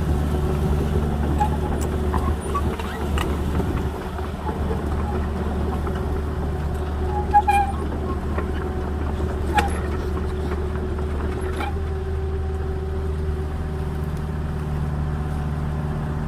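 Small agricultural excavator's engine running steadily, with three sharp knocks about two seconds apart in the middle.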